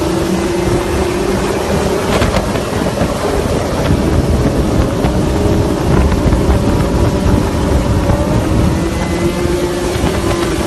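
A motorcycle engine running steady, its pitch drifting slowly up and down, under heavy wind rumble on the microphone.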